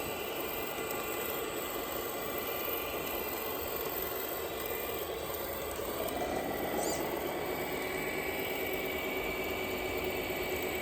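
Radio-controlled model truck running, a steady whine with a constant hiss; about six seconds in the whine rises a little in pitch and holds, as the truck speeds up.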